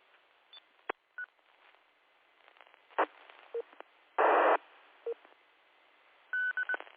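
Amateur radio repeater between transmissions: sharp keying clicks, a few short beeps, a half-second burst of static about four seconds in, and a quick string of high beeps near the end.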